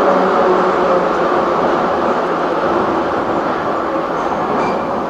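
Running noise of a Moscow Metro 81-717/714 "Nomernoy" train in motion, heard inside the car: a steady rumble of wheels on track with a faint motor hum that fades out partway through, the whole sound slowly getting quieter.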